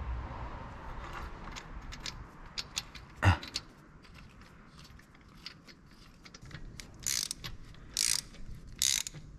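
Light clinks of metal parts and tools, one sharp knock about three seconds in, then from about seven seconds a ratchet wrench worked in short strokes about once a second, running down the bolt on the camshaft sprocket.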